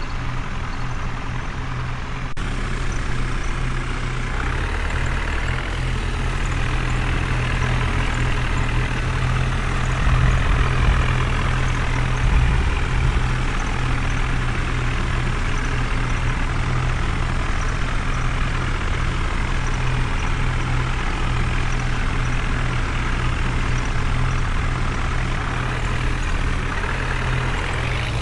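Heavy vehicle engine sound running steadily, a low continuous rumble that thickens about two seconds in.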